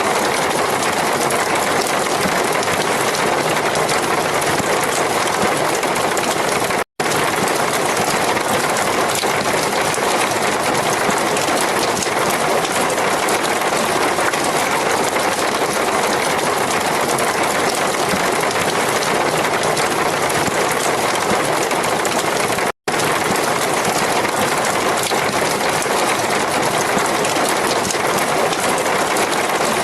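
Heavy rain falling steadily, a dense even hiss, which cuts out for an instant twice, about 7 seconds in and near 23 seconds in.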